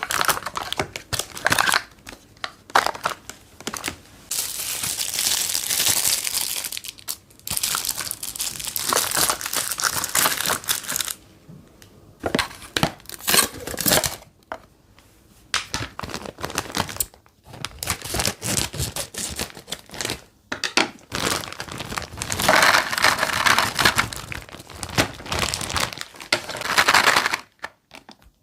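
Plastic food packaging crinkling and rustling as it is handled and opened, in irregular bursts with longer stretches of rustling about four seconds in and again near the end, broken by short pauses.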